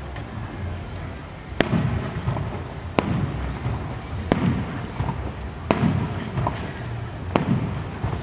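Aerial firework shells bursting: five sharp bangs about a second and a half apart, each followed by a low rumbling echo.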